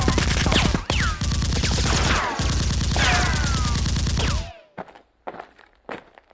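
Rapid automatic gunfire from more than one gun, with ringing tones falling in pitch through it, cutting off suddenly about four and a half seconds in; a few faint scattered knocks follow.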